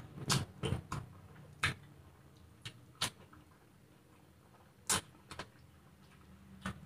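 Eating sounds of a person eating noodles with his hand: a handful of short, sharp mouth clicks and smacks from chewing, spaced irregularly, over a faint low background.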